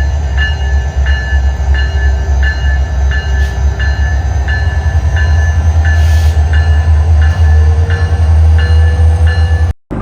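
Alaska Railroad diesel locomotive running with a loud low rumble while its bell rings steadily, about three strikes every two seconds. The sound cuts off abruptly near the end.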